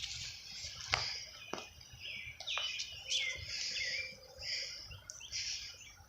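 Small birds chirping: a run of short, high notes, with a few sharp clicks in the first three seconds.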